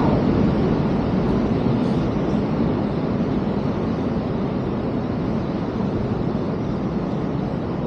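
Ocean waves rushing and rumbling, echoing inside a sea cave: a steady low roar of surf that eases off slightly.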